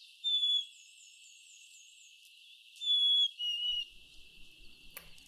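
Black-capped chickadee singing its clear whistled "fee-bee" song: a single note near the start, then about three seconds in a higher note dropping to a lower one. Fainter calls of other birds sound behind it.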